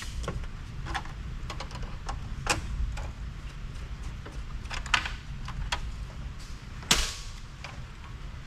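Scattered sharp clicks and knocks of metal hand tools and small metal parts being worked on inside an amplifier chassis, the loudest about two and a half, five and seven seconds in, over a low steady hum.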